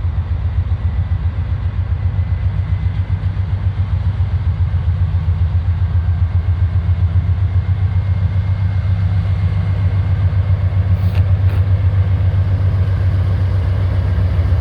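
GE C40-8 diesel-electric locomotive's engine running under throttle, a steady, rapidly pulsing low rumble that grows slightly louder near the end.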